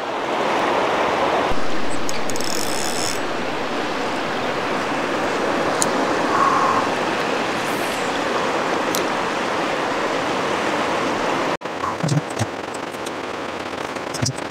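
River water rushing, a steady even noise. It cuts off abruptly about eleven and a half seconds in and is followed by a few faint clicks.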